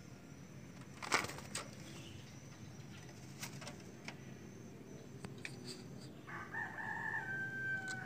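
Scattered sharp knocks and taps, the loudest about a second in, then a single held bird call of under two seconds near the end.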